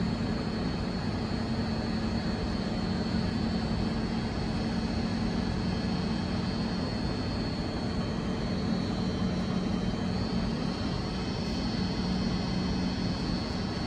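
A standing double-deck push-pull commuter train's on-board equipment running steadily: an unbroken drone with a low hum and a thin high whine.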